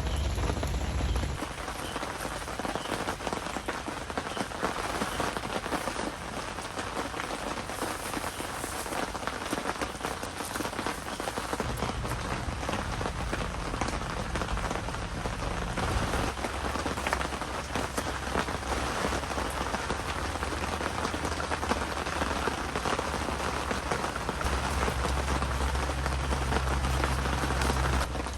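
Heavy typhoon rain falling steadily, a dense patter of drops hitting the surface. A low rumble comes and goes beneath it.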